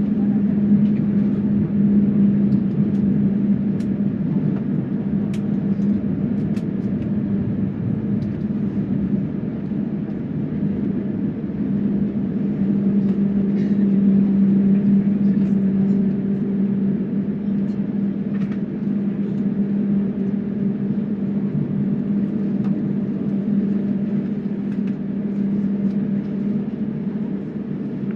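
Jet airliner's cabin noise: a steady drone of engines and airflow with a constant low hum.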